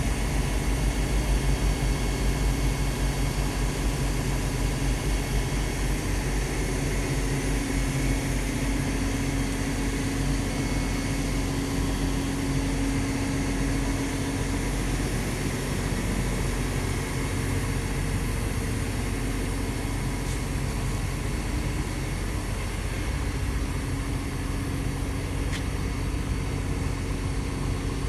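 Crawler excavator's Cummins diesel engine running steadily, with a low drone and a hum that swells for several seconds partway through.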